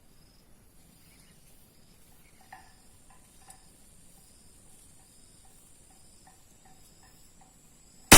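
Crickets and other insects chirping steadily in a rice field, with a high steady insect whine. Right at the end comes one sudden loud sharp report, the shot of a hunting air rifle.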